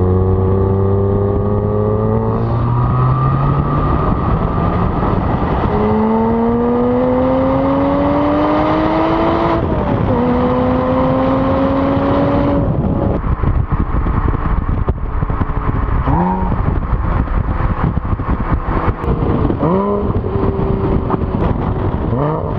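2008 Porsche Cayman S 3.4-litre flat-six through the Porsche Sport Exhaust, pulling hard with rising revs and an upshift about ten seconds in. Then it lifts off the throttle, with a crackling exhaust burble on the overrun and two short throttle blips on downshifts near the end.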